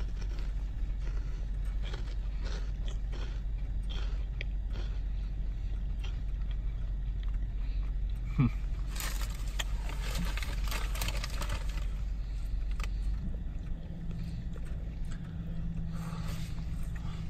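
A man chewing a big bite of fried chicken sandwich, with small irregular mouth noises and a denser stretch of chewing partway through, over a steady low hum.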